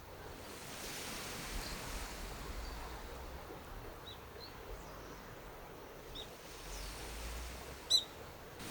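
A few short, high bird chirps, the loudest near the end, over a soft steady rushing background.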